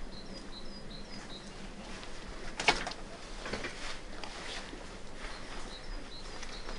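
A small bird chirping repeatedly in short high notes, over a few slow, muffled exhaust beats from a steam locomotive working a train. The first beat, about two and a half seconds in, is sharp and the loudest.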